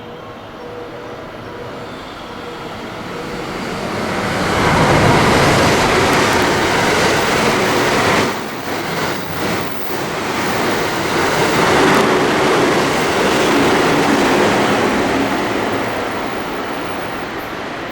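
Electric train passing through the station at speed without stopping. The noise builds over a few seconds, stays loud for about ten seconds with a few brief dips, then fades as it recedes.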